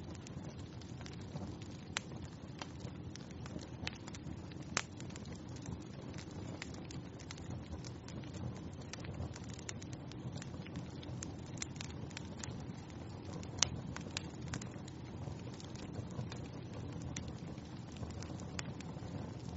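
Wood fire burning in a fireplace: a steady low flame rumble with frequent small crackles and a few louder sharp pops, the loudest about five seconds in and again near fourteen seconds.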